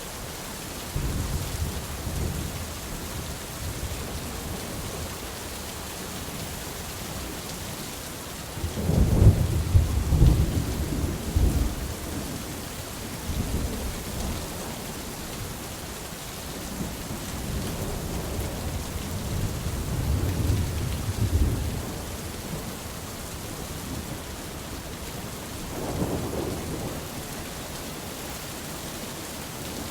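Steady rain with rolls of thunder: a low rumble swells about a second in, a louder, longer roll runs from about 9 to 12 s, another from about 17 to 22 s, and a short one near the end.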